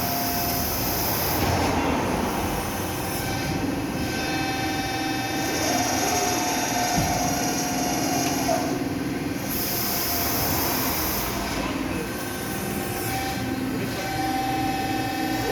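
Factory machinery running: a steady noisy drone with two held whining tones and a high hiss that comes and goes several times.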